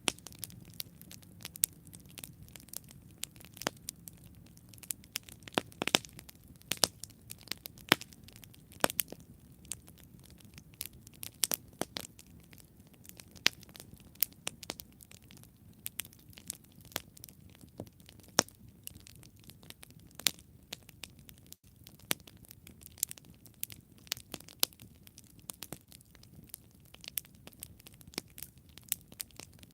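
Wood campfire burning and crackling, with frequent sharp, irregular pops and snaps over a soft low rush of flame.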